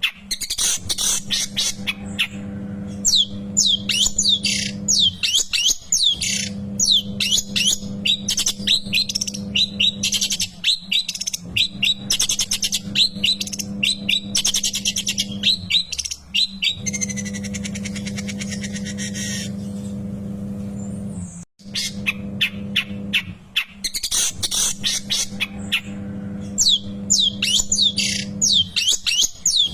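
Long-tailed shrike (cendet) singing: rapid chattering runs of sharp, falling notes, with a few seconds of harsh continuous buzzing in the middle. A steady low hum runs underneath and drops out briefly a few times.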